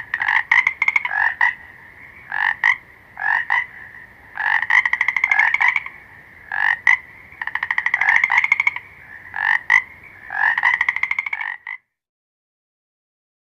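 Frog croaking: a series of pulsed croaks, some short and single or paired, others drawn out into rattling trills over a second long, stopping about twelve seconds in.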